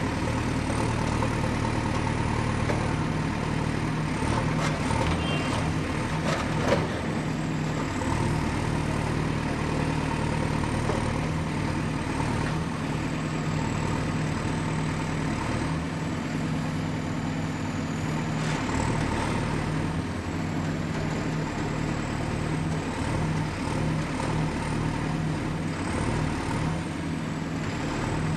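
Excavator's diesel engine running steadily at work, with a faint high whine that wavers up and down and a few sharp knocks about four to seven seconds in.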